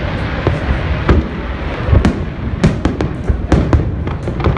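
Aerial firework shells bursting, one bang after another at an irregular pace over a continuous rumbling haze. The loudest bang comes about two seconds in.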